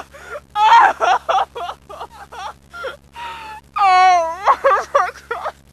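An unaccompanied woman's voice singing in a wavering, wailing way: several short phrases with gaps between them, and one long held note with a wobbling pitch about four seconds in.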